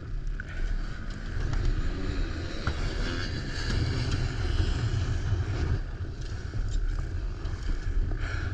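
Pickup truck driving, heard from its open bed: a steady low rumble of engine and tyres with an even hiss over it.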